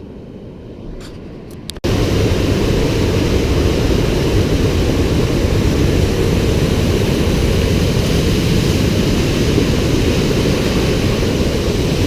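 Small waterfall's rushing water, a loud steady noise that comes in suddenly about two seconds in, after a few faint clicks.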